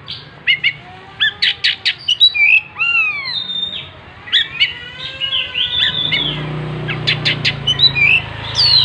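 Oriental magpie-robin (kacer) singing a busy, varied song of whistled phrases, arching slurs and sharp clicking notes. A low hum joins underneath from about six seconds in.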